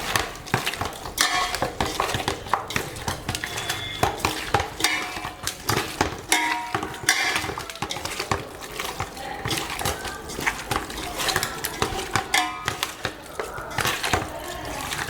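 Broiler chicken pieces being mixed and kneaded by hand into a thick curd-and-spice marinade in a bowl, with many short clinks and knocks against the vessel.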